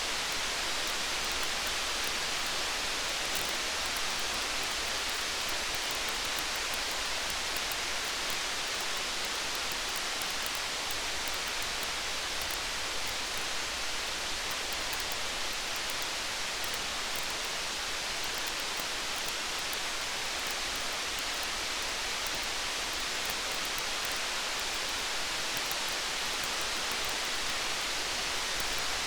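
Steady rain falling, an even hiss, with the fine, frequent crackle of a campfire over it.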